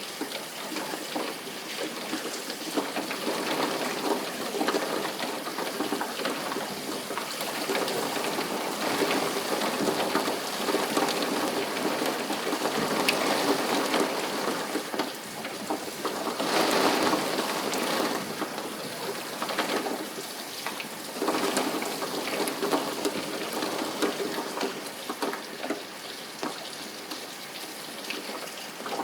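Steady rain falling, a dense hiss with many scattered drop ticks; it swells louder for a couple of seconds a little past halfway, then eases.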